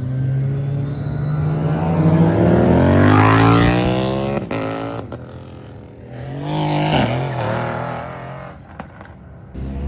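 A car engine accelerating hard, its pitch climbing steadily for a few seconds before a sharp break like a gear change. A second, shorter burst of revs rises and falls about seven seconds in, then fades away.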